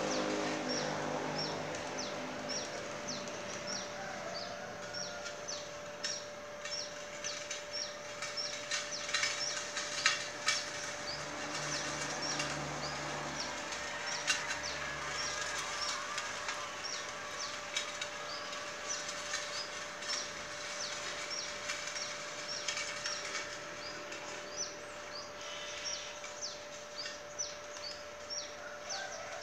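A bird chirps over and over, about twice a second. The small homemade electric-motor tractor runs quietly: it adds only a low hum and a few knocks as it passes close, around ten to fifteen seconds in.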